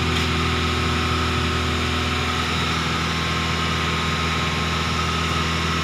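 SsangYong car engine idling steadily, with a faint steady whine above the running, while catalytic-converter cleaner is drawn into the intake through a vacuum hose.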